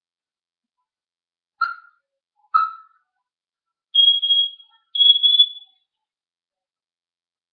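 Pet parrot giving two short sharp calls about a second apart, then two steady high-pitched whistles, each a little over half a second long.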